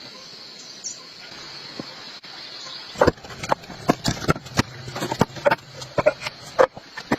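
A faint steady high whine over low hiss, then from about three seconds in a quick, irregular run of loud sharp cracks and snaps, several a second.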